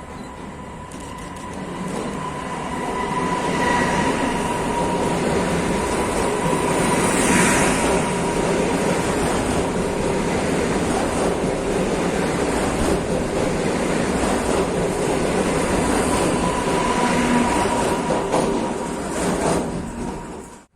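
PKP Intercity ED161 (PESA Dart) electric multiple unit passing, wheels clattering over the rails, with a thin steady whine over the running noise. The sound builds over the first few seconds, stays loud, and cuts off suddenly at the end.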